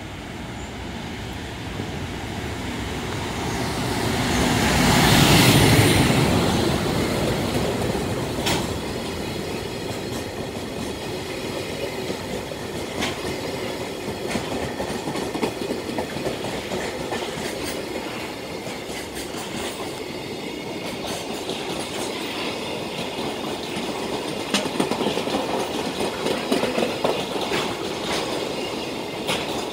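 A JR Freight EF510 electric locomotive passes close at speed, loudest about five seconds in, followed by a long train of container flat wagons clattering over the rail joints in a steady run of wheel clicks. The clicks grow louder and sharper near the end as empty flat wagons go by.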